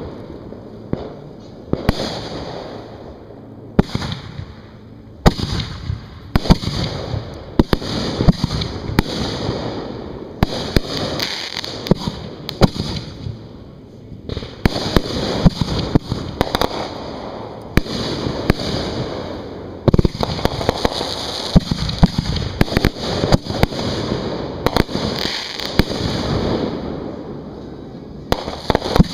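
Professional aerial fireworks display heard from right beside the firing racks: a continuous run of sharp reports from shells firing out of mortars and bursting overhead, often several a second, over a rumbling wash.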